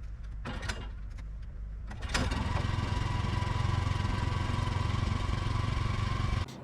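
Kohler engine of a Wood-Mizer portable sawmill being started cold: after a quieter first two seconds it catches and runs steadily, then cuts off suddenly just before the end.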